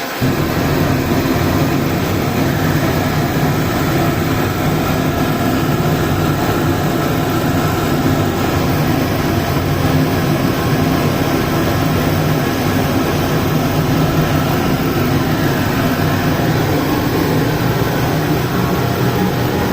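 Forced-draft burner running: a steady blower hiss is abruptly joined at the start by a loud, steady low rumble that then holds. This fits the flame catching after the fan's pre-purge.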